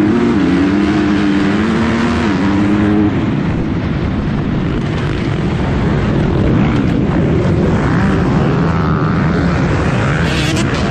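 Motocross bike engine running hard, its pitch rising and falling with the throttle for about the first three seconds, then a rougher, noisier stretch with a lower engine note.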